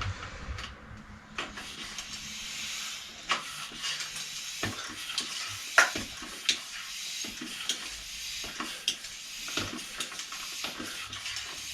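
Scattered light clicks and clinks over a steady faint hiss, the sharpest click a little before halfway.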